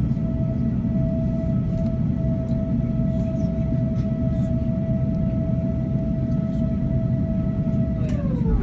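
Airbus A350-900 cabin after landing: a steady low rumble with a steady high whine over it, and the whine slides down in pitch near the end.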